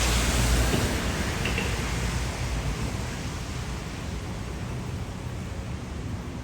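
Steady hiss of city street noise over wet pavement, with a low rumble, loudest in the first second and then easing off a little.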